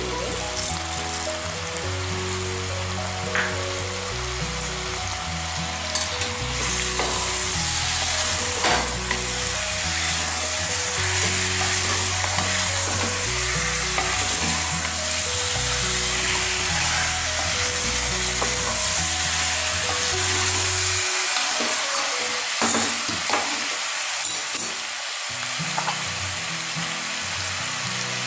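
Chicken pieces and sliced onions sizzling as they fry in oil in an open pressure cooker, with a spatula stirring and scraping them against the pot. The sizzle grows louder a few seconds in.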